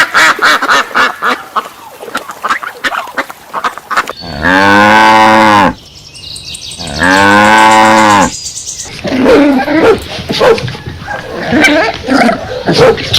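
Cattle mooing: two long, loud moos that rise and fall, about four and seven seconds in. Rapid, repeated honking of waterfowl fills the first few seconds, and more choppy animal calls follow the moos.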